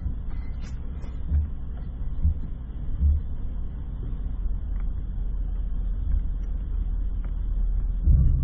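GMC Yukon SUV rolling slowly backward off car ramps: a steady low rumble with a few dull thumps, and a louder low swell near the end.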